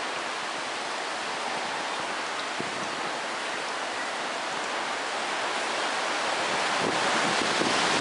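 Steady rain falling, a continuous hiss that swells louder over the last couple of seconds.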